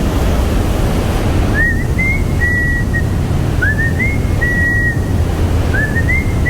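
Steady loud roar of the glacier-fed Trümmelbach waterfall rushing through the rock. Over it someone whistles a short phrase three times, a quick rising slide into a held high note.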